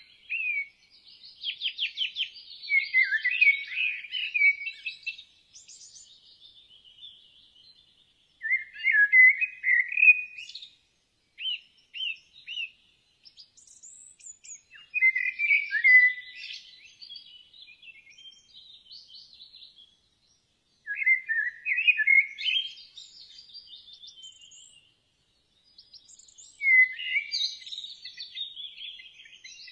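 Birds chirping and singing in short, high phrases that come every few seconds, with brief pauses between them.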